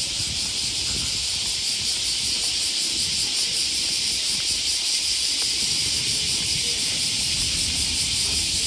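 Dense chorus of cicadas: a steady, high buzzing hiss with a fine even flutter, over a low rumble.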